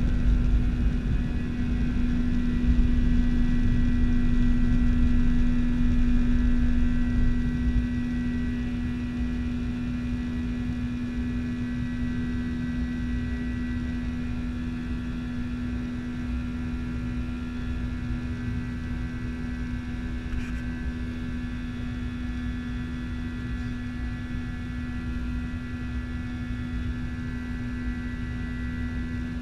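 Boeing 737-900's CFM56 jet engines running at a steady pitch, a strong hum with higher whining tones over a heavy low rumble. The rumble is loudest for the first several seconds, then eases to a steady drone.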